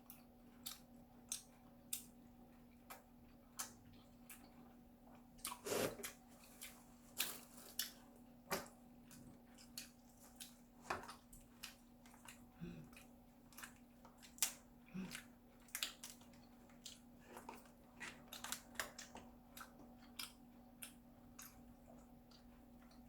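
Eating steamed lobster up close: irregular soft clicks, crackles and chewing noises of the meat and shell, over a faint steady hum.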